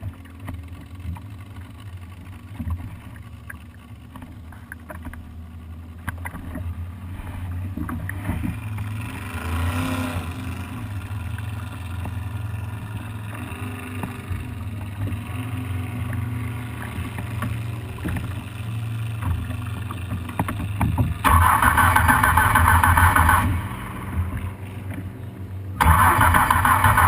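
Vintage engine being cranked by its starter twice, each time for about two seconds, near the end, without catching: a no-start. A steady low hum runs underneath.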